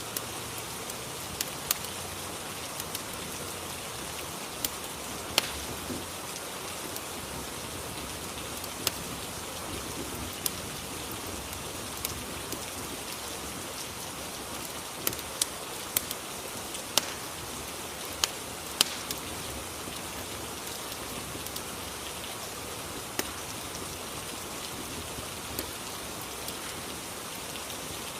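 Rain and fireplace ambience: a steady hiss of rain, with irregular sharp pops and crackles from a wood fire scattered through it.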